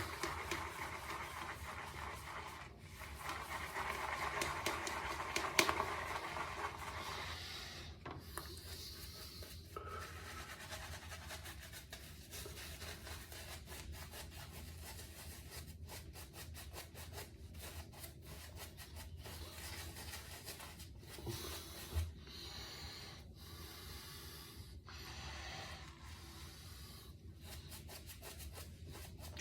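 Synthetic shaving brush swirling and scrubbing shave-soap lather: a soft, wet rubbing made of rapid repeated strokes, a little louder a few seconds in.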